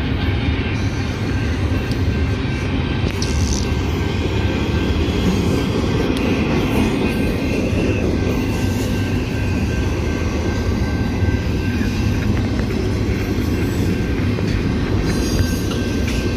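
Double-stack intermodal freight train rolling slowly past: a steady rumble and clatter of wheels and container cars on the rails.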